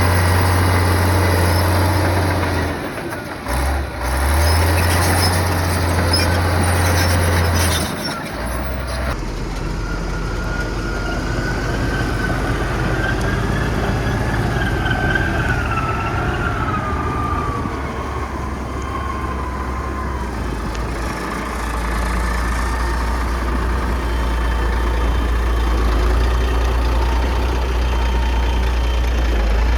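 Heavy diesel engine of a Komatsu bulldozer running steadily at working load. Its note drops briefly about three seconds in and settles lower after about eight seconds. A faint wavering high squeal is heard over the middle part.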